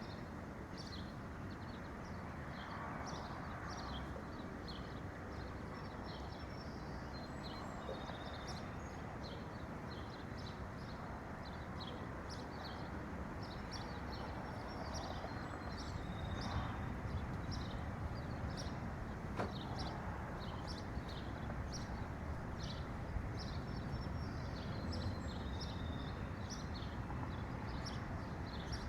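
Several small birds chirping and twittering in quick, overlapping short notes, over a steady low background rush.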